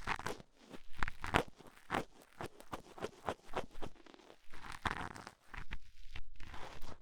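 Ear-cleaning ASMR sounds: an ear cleaning tool scraping and rubbing close against the microphone's ear, making irregular scratchy clicks several times a second. Two short, soft rushing sounds come in the second half.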